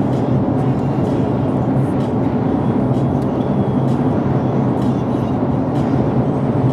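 Steady drone of a vehicle driving, a constant low hum of engine and road noise with no change in pace.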